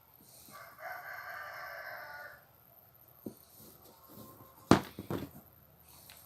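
A rooster crowing once in the background, one long call of about two seconds. Later there are two short, sharp noises close together, the loudest sounds here.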